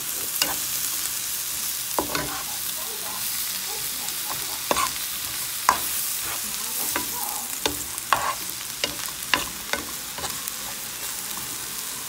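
Frozen chopped spinach sizzling in hot oil in a pot, with a spoon stirring it and knocking against the pot at irregular moments.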